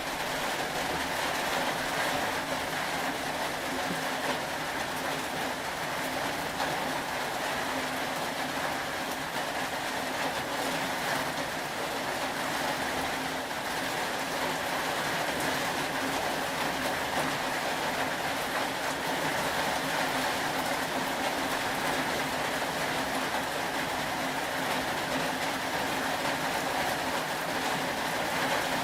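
Steady rain falling, an even unbroken hiss with a faint steady low hum underneath.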